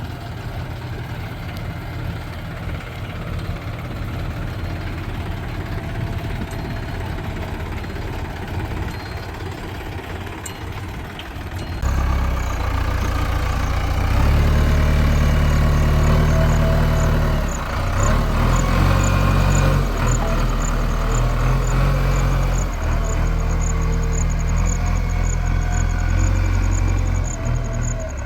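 A heavy diesel engine on the earthmoving machinery is running. It is steady for about twelve seconds, then turns louder and heavier, rising and falling as the machine works under load.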